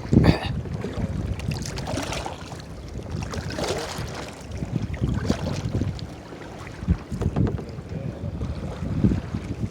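Wind rumbling on the microphone, with water splashing around a kayak in bursts about every two seconds; the loudest splash comes just as it begins.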